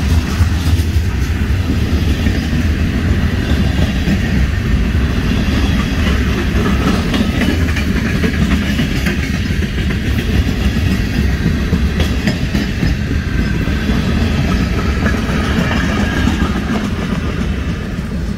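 Florida East Coast Railway freight train rolling past close by, its covered hoppers and gondolas giving a steady rumble of wheels on rail with rattling. It grows a little quieter near the end as the last cars go by.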